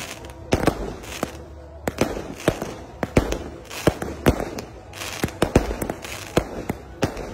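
A 120-shot fireworks cake firing in quick succession: sharp bangs from shots launching and bursting, about two to three a second at an uneven pace.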